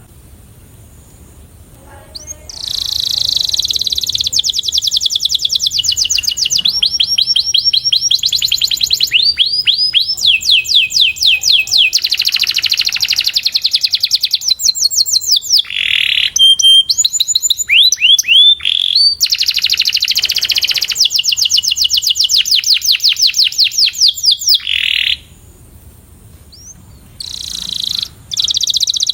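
A canary singing after a brief quiet start: long, fast trills and rolls of rapidly repeated notes, linked by a few sweeping whistled glides. The song pauses briefly near the end and then resumes.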